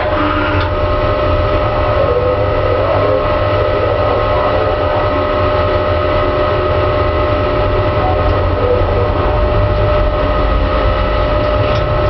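Headman CK6130 CNC lathe running with a steady whine over a low rumble.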